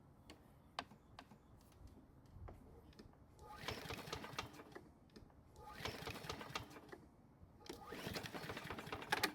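Toro Personal Pace mower engine pull-started three times, each pull a second or so of rapid chugging cranking that dies away without the engine catching: a no-start with the engine not firing. A few light clicks come before the first pull.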